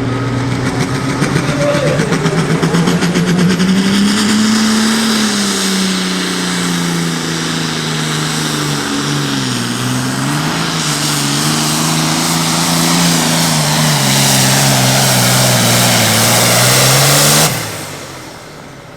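Turbocharged diesel engine of a super farm pulling tractor at full throttle, dragging a sled. Its pitch climbs at first, then sags and wavers under the load, with a loud high hiss over it. The engine note cuts off abruptly near the end as the pull finishes.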